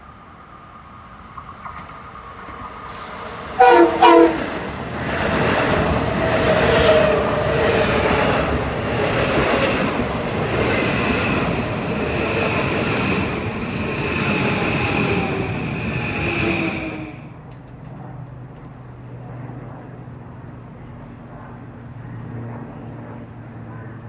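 A Metro-North M8 electric multiple-unit train sounds two short horn blasts about four seconds in, then passes close by with loud wheel and rail noise and a steady high whine. At about 17 seconds the noise falls away suddenly, leaving a fainter low rumble.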